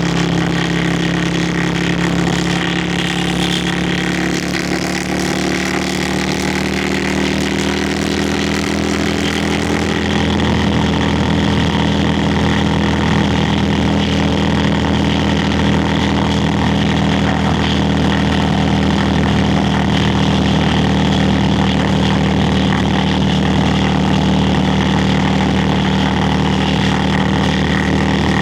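Yamaha Virago XV535's V-twin engine and exhaust running under way, with wind noise over it. The pitch eases slightly lower through the first ten seconds, then the engine gets louder and holds a steady pitch.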